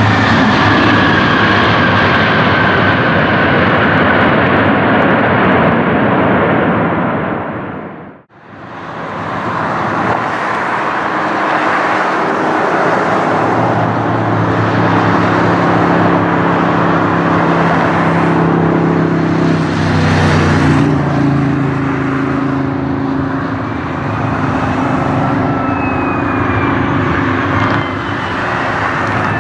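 Loud jet airliner engine noise, with whining tones that fall in pitch. About eight seconds in the sound fades out briefly and another jet's engine noise comes in: a steady rush with low steady tones, and falling whines near the end.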